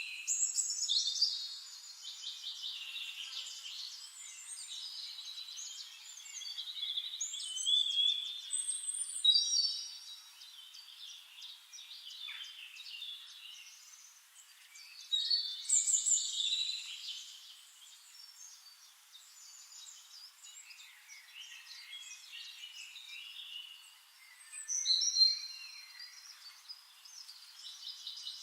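Several songbirds singing at once, overlapping high chirps, trills and whistled phrases, with louder bursts of song every several seconds.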